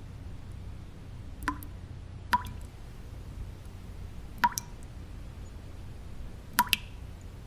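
Water drops dripping at uneven intervals, about six sharp drips, some in quick pairs, over a steady low white-noise hum.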